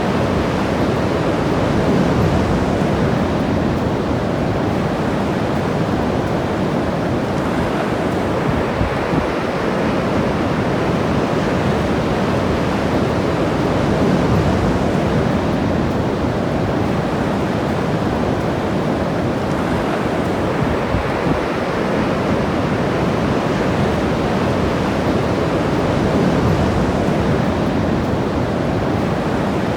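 Ocean surf breaking and washing along the beach, a steady rush that swells slightly every several seconds.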